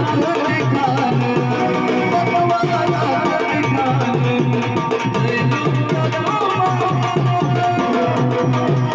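Marathi devotional folk song to Khandoba: hand drums keep a steady, quick rhythm, about three to four strokes a second, under a wavering melodic line.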